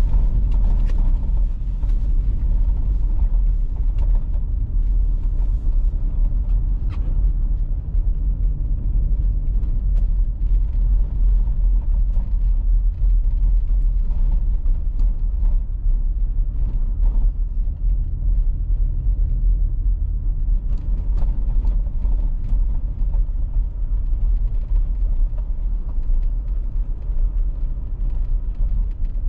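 Car driving at steady speed: a continuous low rumble of engine and tyre noise, with a few faint ticks scattered through.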